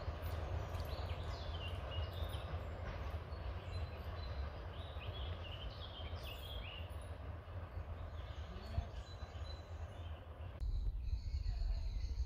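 Woodland birdsong: several small birds chirping and trilling over a steady low rumble. About ten seconds in, the background changes abruptly: the rumble gets louder and a higher, thinner run of birdsong takes over.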